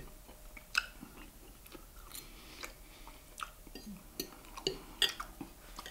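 A man chewing a mouthful of food close to the microphone, with irregular short wet clicks and smacks of the mouth.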